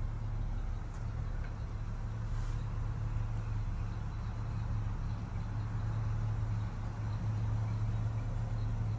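1976 Chevrolet Blazer's engine idling with a steady low hum.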